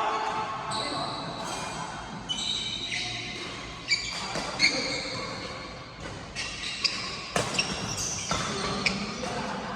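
Badminton rally: racket strings hitting the shuttlecock in a string of sharp smacks, several coming in quick succession in the second half, with short high squeaks of court shoes on the floor.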